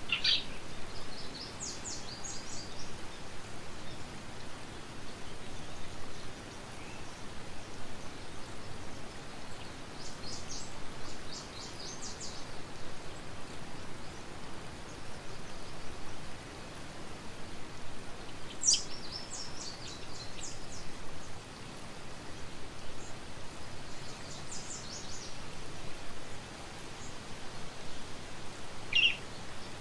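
Outdoor ambience: a steady background hiss, with a small songbird singing a short burst of quick high chirps every several seconds.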